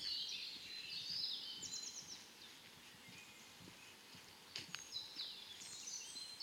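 Several songbirds singing faintly in spring woodland: a mix of short chirps and quick trills from more than one bird. A few soft clicks come about two-thirds of the way through.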